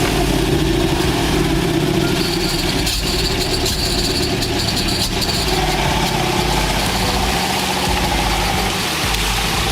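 GAZ-66 off-road truck's engine running steadily, with a slight change in pitch about six seconds in.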